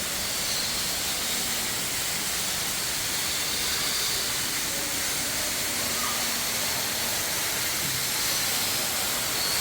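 Artificial indoor waterfall splashing: a steady rushing hiss of falling water.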